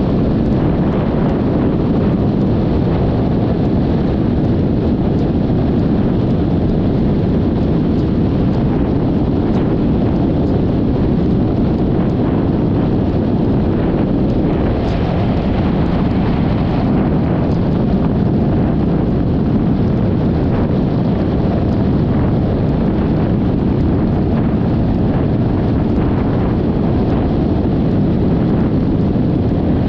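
Steady wind buffeting the microphone of an action camera on a moving Yamaha XMAX 300 scooter, mixed with engine and road noise. A brief brighter hiss comes about halfway through.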